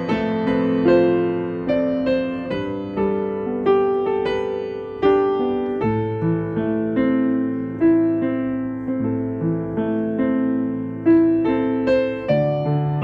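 Solo piano music: a slow, gentle melody over sustained bass notes, each note struck and left to ring and fade.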